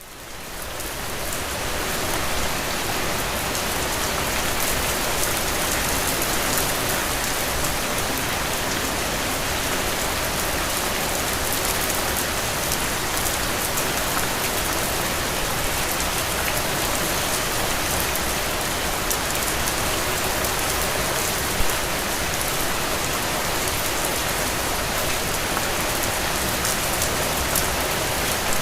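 Steady rain falling on a surface, an even hiss with no pauses. It fades in over the first couple of seconds, then holds level.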